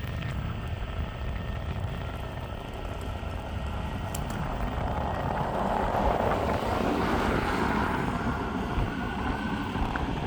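Meepo Hurricane electric skateboard cruising: wind rushing over the microphone and the wheels rumbling on pavement, with a faint steady motor whine. The rush gets louder about halfway through.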